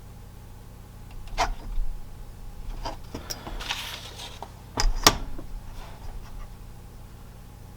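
A few sharp knocks, the loudest a close pair about five seconds in, and a short rustle or scrape, as paper drawings and tools are handled on a work surface, over a steady low hum.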